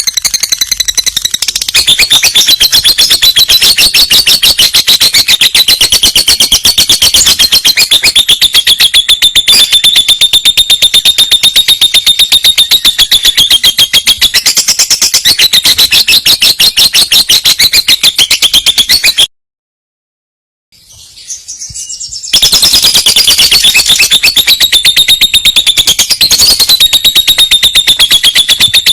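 Lovebird's long unbroken chattering song (ngekek): a loud, rapid string of high, shrill notes. It drops out for about three seconds a little past the middle, then carries on.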